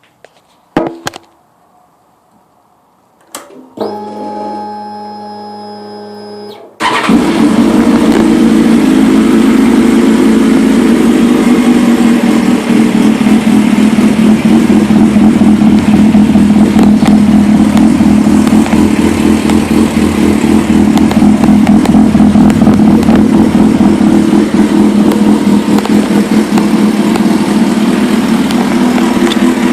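A couple of clicks, then a steady electric whine for about three seconds. Seven seconds in, the 2004 Suzuki GSX-R1000's inline-four starts and runs loud and steady through a full titanium TiForce exhaust.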